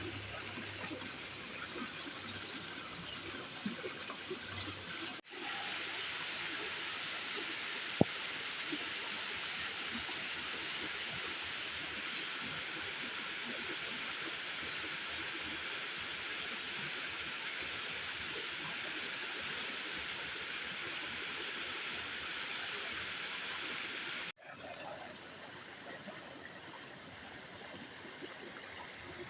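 Steady rushing of water, without a beat or tone, that jumps abruptly louder and brighter about five seconds in and drops back near the end, as if cut between shots. A single sharp click sounds about eight seconds in.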